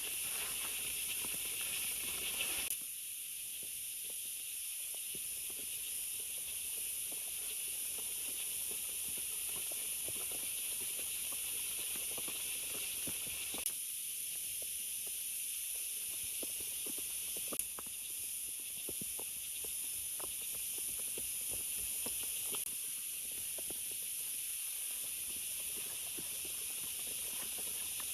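Steady rain falling in forest, an even hiss with many small drop ticks scattered through it.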